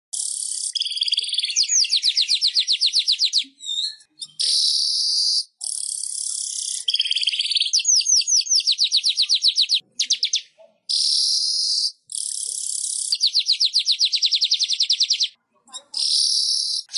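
Manyar (weaver bird) song: wheezy, hissing buzz phrases alternating with fast trills of downward-sweeping high notes, about ten a second, repeated in bouts separated by brief pauses.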